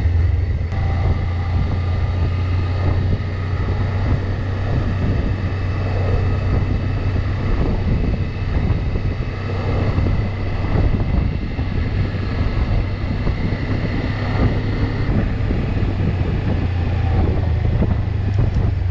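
A vehicle moving at a steady speed: a constant low drone with faint steady whining tones above it, and wind rushing over the microphone.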